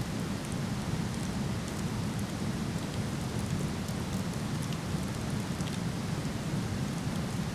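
Steady rushing of a waterfall, with faint, scattered crackles from a wood campfire.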